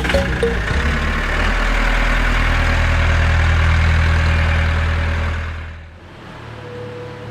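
An engine or motor running steadily with a low hum, fading down about six seconds in.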